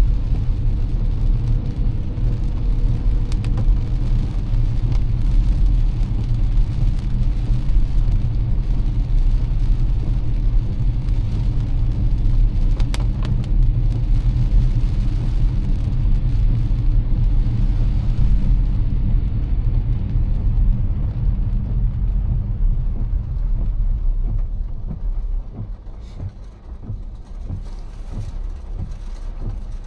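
A car driving on wet roads in heavy rain: a steady low rumble of tyres and engine under a hiss of rain and spray. It becomes quieter about 25 seconds in.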